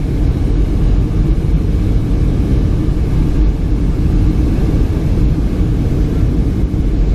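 Airliner cabin noise in flight: the steady low rumble of the jet engines and rushing airflow, heard from inside the passenger cabin.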